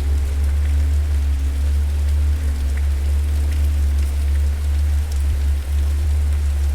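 Fireplace ambience: a steady deep rumble of burning fire with sparse, faint crackles on top.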